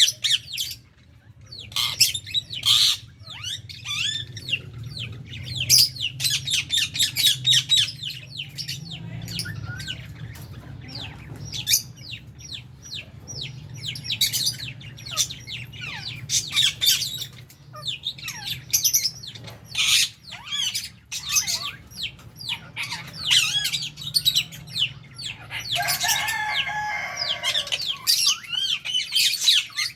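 A flock of lovebirds and budgies chirping and screeching almost without pause, with a steady low hum underneath. A lower, drawn-out call joins in about 26 seconds in.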